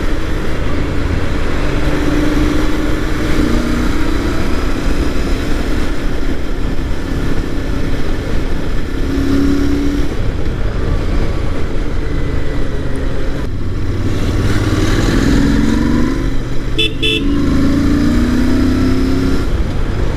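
Royal Enfield Interceptor 650's parallel-twin engine running under way through its stock exhausts, a deep note made bassier by a K&N air filter and air filter plate. About three-quarters through, a vehicle horn beeps twice briefly.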